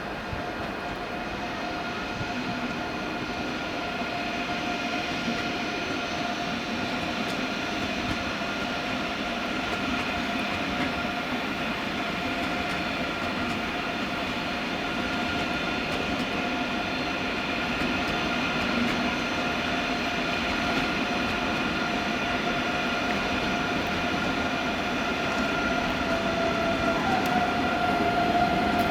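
Train on the tracks with a steady whine of several pitches over a low rumble, slowly growing louder.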